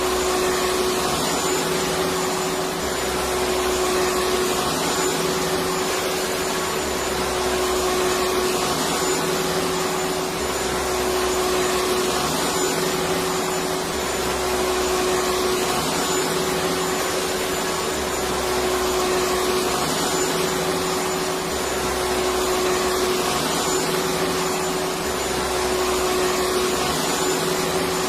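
Electric vacuum cleaner running steadily: an even rushing noise with a constant motor whine, and a low pulsing pattern that repeats about every two seconds.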